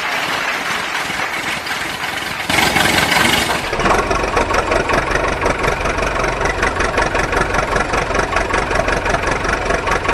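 A vehicle engine comes in about two and a half seconds in and settles into a steady, rhythmic idle.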